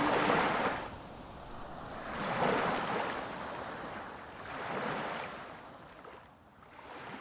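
Ocean surf: waves washing in, four swells about every two and a half seconds, growing fainter.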